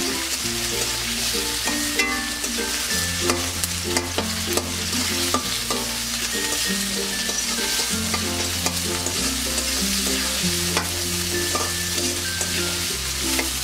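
Sliced onions sizzling as they fry in hot oil in a kadai, stirred with a spatula that scrapes and clicks against the pan.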